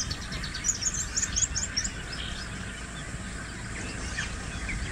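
Bird calling: a quick run of high, short chirps over the first two seconds or so, then a few scattered chirps, over a steady low background rumble.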